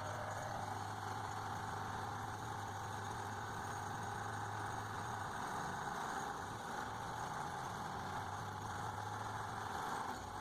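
Heavy tractor's diesel engine running steadily, with no change in pitch.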